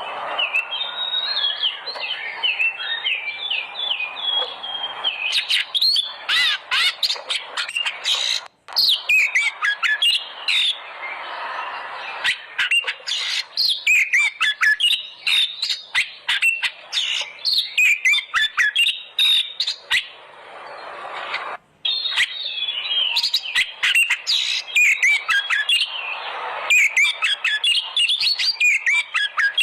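Oriental magpie-robin (kacer) singing a loud, varied song of rapid whistles, chattering and harsh notes. The song breaks off briefly twice, about nine seconds in and about 22 seconds in.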